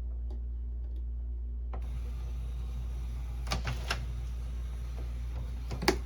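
Refilled ink cartridge being pushed back into a Canon Pixma inkjet printer: a few sharp plastic clicks, about three and a half, four and six seconds in, over a steady low hum.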